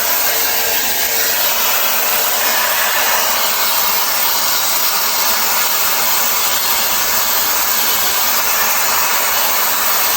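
Shark FlexStyle air styler running, blowing air with a steady rush that does not change.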